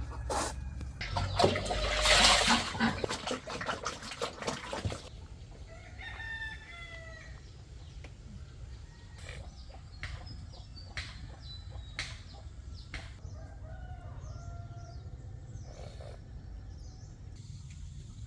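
A rooster crows loudly in the first few seconds. After that come scattered short, high chirps and a few sharp clicks over a steady low hum.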